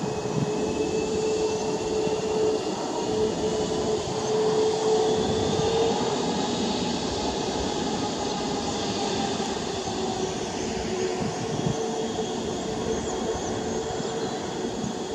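Boeing 737 MAX 8 heard from on board, its CFM LEAP-1B engines running with a steady hum over an even rumble of the aircraft moving on the ground.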